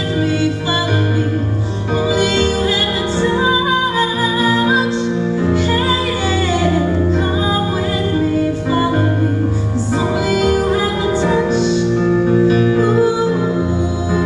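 Music: a woman singing a slow song over an instrumental accompaniment with sustained bass notes.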